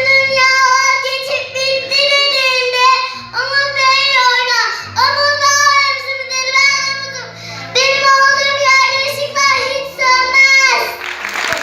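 Children singing a song in held, melodic lines over instrumental backing music. The song ends near the end and applause starts.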